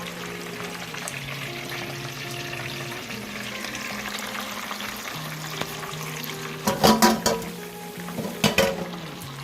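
Food frying in a pan with a steady sizzle, and two short bursts of loud clattering about seven and eight and a half seconds in. Background music plays throughout.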